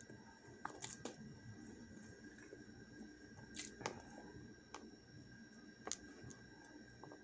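Quiet eating: a handful of sharp little clicks and crackles, a second or two apart, as a piece of battered lemon chicken is bitten and chewed, over a faint steady hum.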